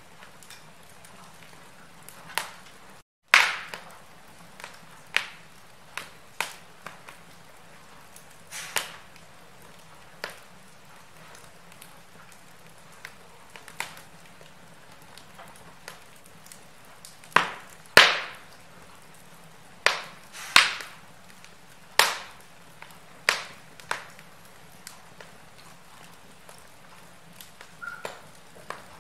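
Wood fire crackling in a fireplace: irregular sharp pops and snaps over a faint steady hiss, the loudest pops coming around the middle. The sound cuts to silence for a moment about three seconds in.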